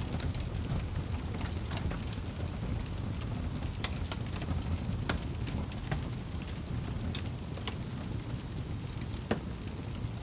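Wood fire crackling over a steady low rumble, with many small crackles and a few sharper pops, the clearest about four, five and nine seconds in.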